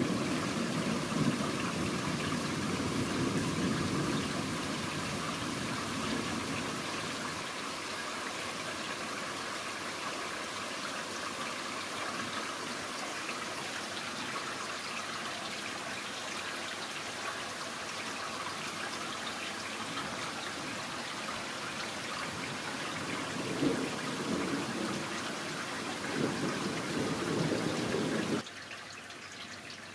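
Steady rainfall hissing throughout, with low rumbling swells at the start and twice near the end. The sound drops off sharply just before the end.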